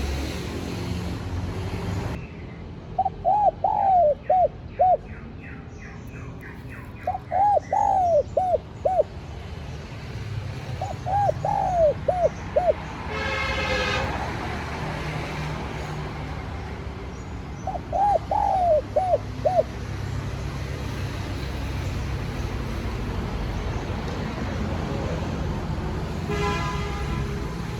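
Spotted dove cooing: four short phrases of several coos each, a few seconds apart, then a pause in the last several seconds. A steady low rumble runs underneath.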